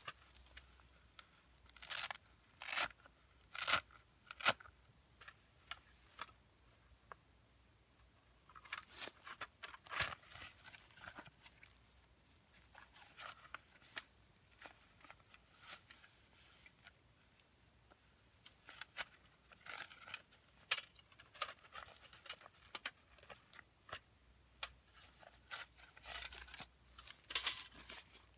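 Scattered crisp snaps, crunches and rustles, irregular and short, with quiet gaps between them: small dry twigs being snapped and handled for a twig fire.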